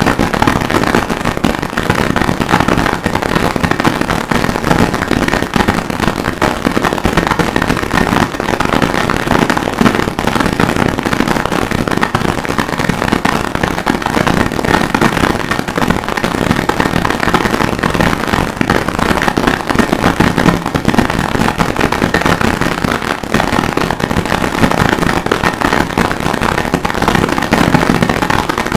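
Harsh noise music: a dense, unbroken wall of distorted crackle and clatter at a steady, loud level.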